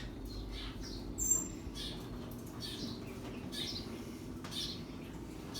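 Birds chirping: a series of short, high calls about one a second, with a thin high whistle about a second in.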